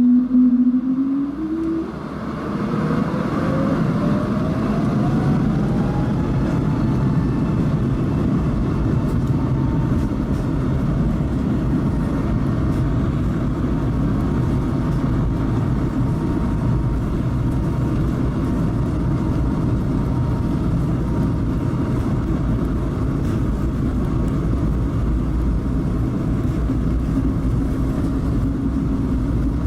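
Airbus A220-300's Pratt & Whitney PW1500G geared turbofan engines spooling up to takeoff thrust: a steady tone rises in pitch over the first several seconds and then holds, over a constant rumble of the takeoff roll.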